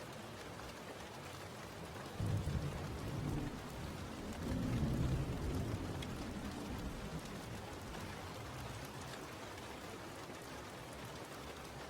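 Steady rain falling, with a low roll of thunder that breaks in about two seconds in, swells again a couple of seconds later and dies away.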